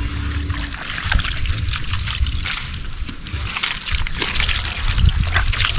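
Water sloshing and splashing with irregular small crackles, over a low rumble.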